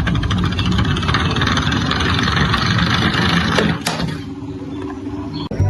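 A motor running with a fast, even ticking whirr, then a single sharp knock about four seconds in, after which it goes quieter.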